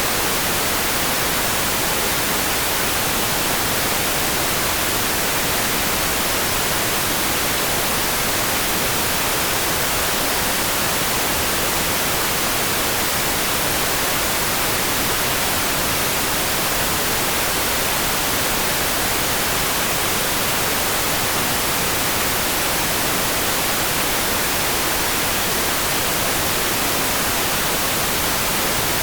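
Steady, even rain hiss with no separate drops, thunder or changes, like heavy rain.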